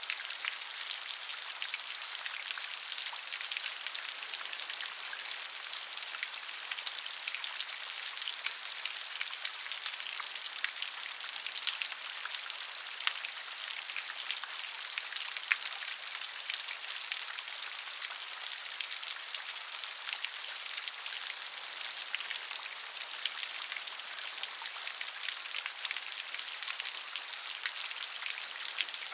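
Steady rain, a dense hiss of many individual drops pattering on a surface, with no thunder or wind.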